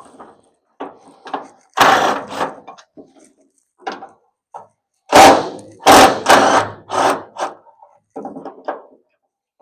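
Loud metallic clanks and knocks of car parts and hand tools being handled during teardown: one cluster about two seconds in and a louder run of four or five near the middle, with lighter knocks between.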